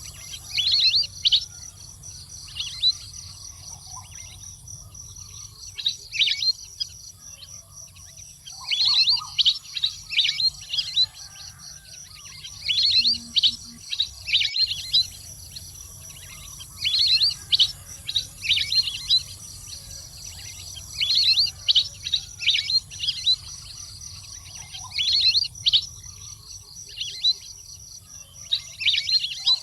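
Waterbird calls: bouts of quick, high-pitched chirping notes, several in a row, repeating every few seconds. A faint steady high-pitched whine, like insects, runs underneath.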